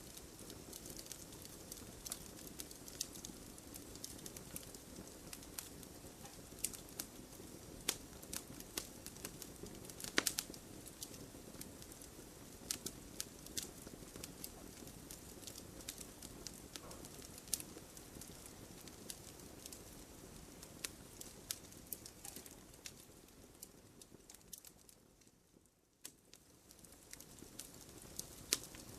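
Wood fire burning in a fireplace: a soft steady hiss of flame with frequent sharp crackles and pops at irregular moments. Near the end the whole sound fades down briefly, then comes back.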